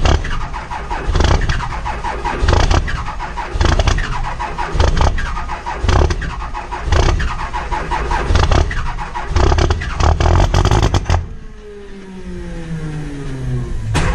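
2003 Cummins 5.9 L inline-six turbodiesel being cranked in a hard cold start at −10°F without its grid heater. It comes in loud, rhythmic surges about every second, with a squeal. About eleven seconds in the cranking stops and the engine spins down with falling tones, and there is a click near the end.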